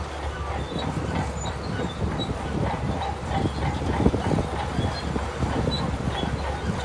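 Shantui DH17C2 crawler bulldozer working, its diesel engine a steady low rumble under a continuous clatter of rattling steel tracks.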